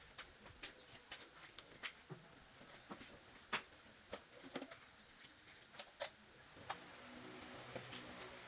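Faint, irregular sharp clicks and light taps, with a low hum rising near the end.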